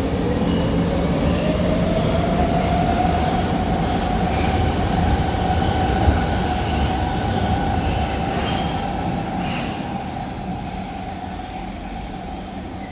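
First-generation Brussels metro train (M1–M5 stock) running, its traction motor whine rising in pitch over the first few seconds as it gathers speed and then holding steady over the rumble of the wheels on the rails. There is a single knock about six seconds in, and the sound grows gradually quieter near the end.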